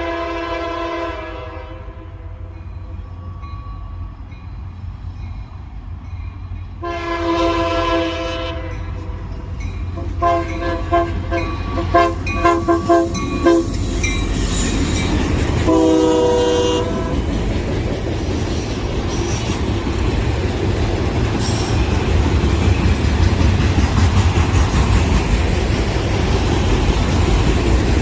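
Diesel locomotive air horn sounding a multi-note chord: two long blasts, then a run of short choppy blasts and one more short blast. After that the train passes close by, and its rumble and wheel noise on the rails build up and run steadily.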